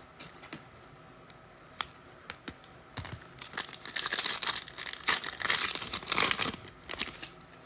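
A few light clicks, then the foil wrapper of a football trading card pack being torn open and crinkled for about four seconds.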